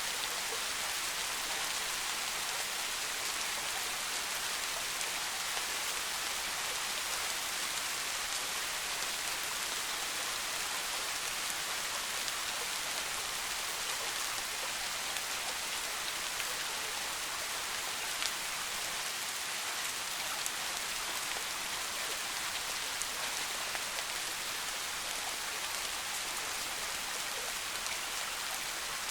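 Steady, soft rain falling in a forest, a continuous hiss with many small drop ticks.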